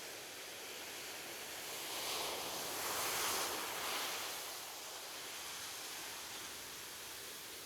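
Ocean waves on a beach: steady surf hiss, with one wave swelling and breaking about two seconds in, loudest near the middle, then washing back down to a steady hiss.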